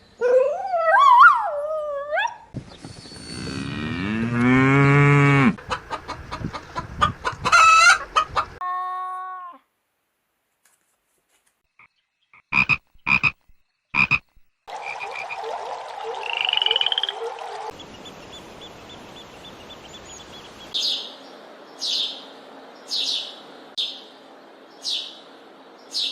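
A string of different animal calls, one clip after another, including frog croaks and farmyard fowl calls. Pitched, gliding calls fill the first eight seconds and are followed by a few seconds of near silence. After that come three short, sharp calls, a noisier stretch, and finally short high calls repeating about once a second.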